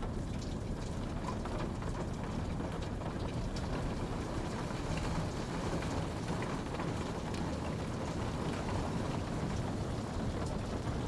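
Steady rain falling, a constant low rush with scattered sharper drops ticking on a surface.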